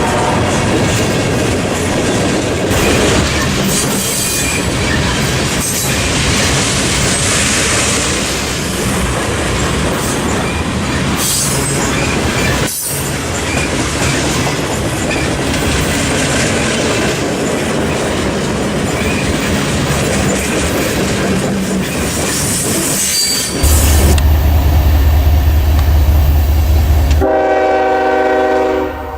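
A train passing close by, its wheels clattering and rumbling on the rails. Near the end a locomotive horn sounds briefly.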